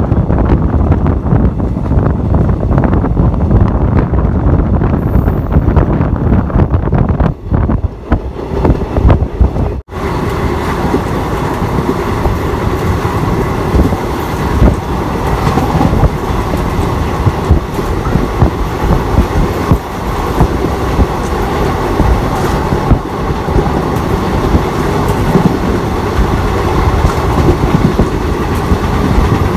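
Moving passenger train running along the track: a steady rumble with the clatter of wheels over the rails. There is an abrupt break about ten seconds in, after which the running noise carries on steadier.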